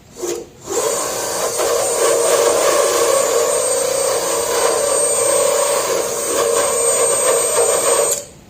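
Power rotary tool fitted with a head-porting bit, grinding rust out of a car hood's sheet steel: a brief burst just after the start, then a steady run of about seven seconds with a high whine, stopping abruptly near the end.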